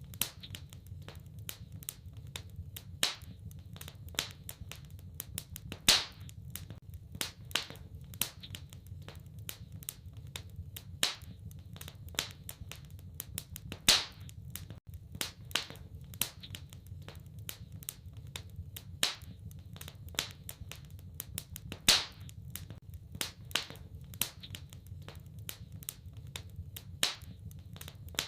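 Wood fire in a fireplace crackling: many irregular sharp pops and snaps, a few much louder than the rest, over a steady low rumble.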